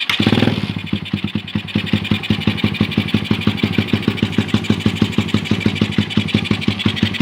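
Suzuki Satria FU motorcycle engine, bored to 200cc, breathing through an RCB aftermarket exhaust. It catches and flares up at the start, then settles into a steady, loud idle with a rapid, even beat of exhaust pulses.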